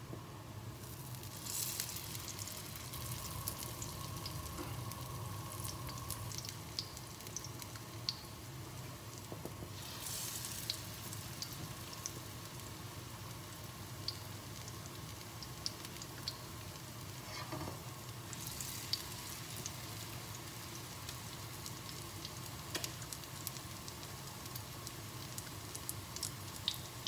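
Zucchini and gram-flour fritters shallow-frying in olive oil, a steady sizzle with scattered sharp crackles that swells up three times.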